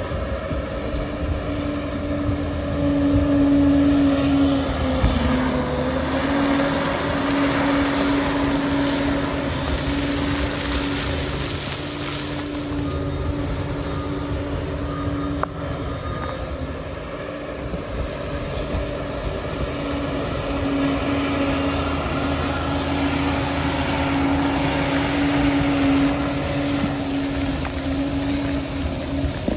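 Diesel engine of a Liebherr PR 746 crawler bulldozer running steadily under load, its pitch sagging briefly about five seconds in before picking back up.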